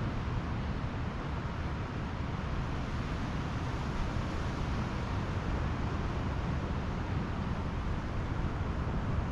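Steady outdoor noise of wind and Pacific surf on a beach, with wind buffeting the microphone in a low, fluttering rumble.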